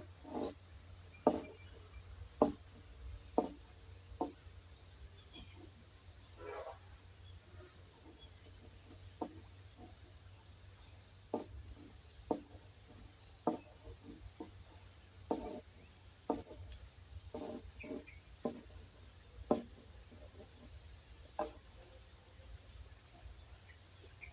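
An insect, cricket-like, trilling one steady high note without a break, fading out near the end. Scattered soft clicks or knocks come irregularly, about once a second, over it.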